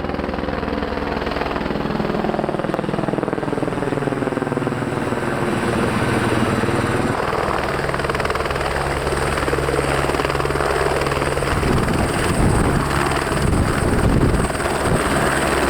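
A Vans RV-12 light aircraft's engine and propeller running steadily, loud and droning, with a shift in its tone about seven seconds in.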